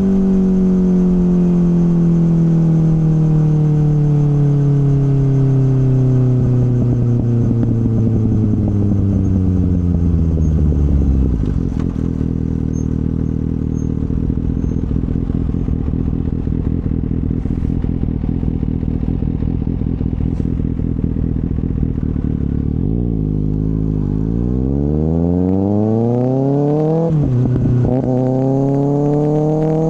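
2024 Kawasaki ZX-6R's inline-four engine through an M4 slip-on exhaust. Its revs fall steadily for about eleven seconds as the bike slows, then it settles to a low, steady rumble. About 23 seconds in it revs up again, with a quick drop in pitch a few seconds later, as at a gear change, before climbing once more.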